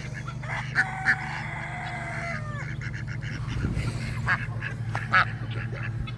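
Farm poultry calling: short honks and squawks, and one longer call about a second in that drops in pitch at its end, over a steady low hum.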